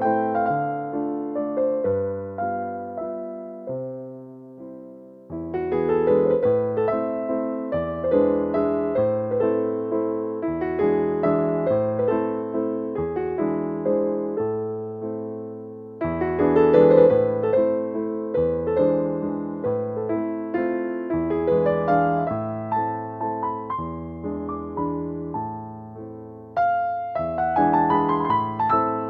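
Background piano music: gentle keyboard phrases of struck notes that fade, with short dips between phrases.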